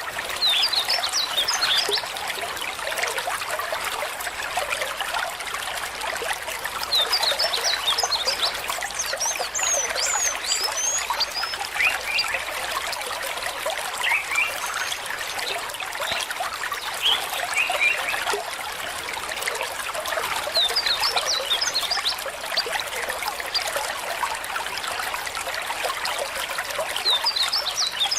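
A stream trickling steadily. Bursts of quick, high chirping calls come every several seconds, with a few lower calls in between.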